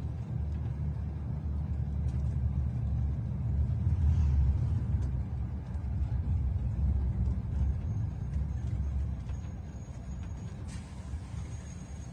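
Wind buffeting the microphone: a low, uneven rumble that swells about four seconds in and eases near the end.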